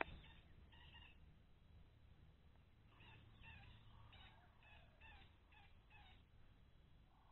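Faint bird calls: bouts of short, repeated chirping notes, one near the start and a longer one from about three seconds in, with a single sharp click right at the start.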